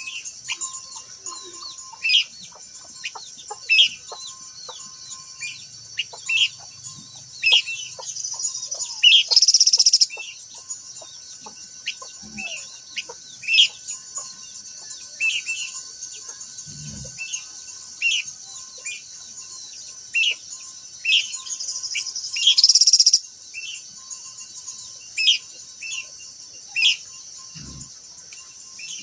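Minla (khướu lùn) calling in short, falling chirps every second or two, over a steady high-pitched insect drone that swells loudly twice, about ten and twenty-three seconds in.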